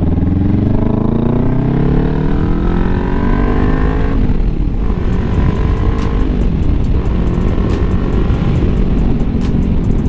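Kawasaki Ninja 400's parallel-twin engine under way, rising steadily in pitch as it accelerates for about four seconds. The pitch then drops, as at an upshift, and it runs on steadier with wind noise.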